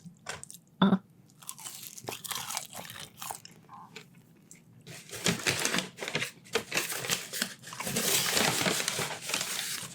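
Close-miked eating sounds: crunching and chewing of food, with a longer stretch of paper wrapping crinkling near the end.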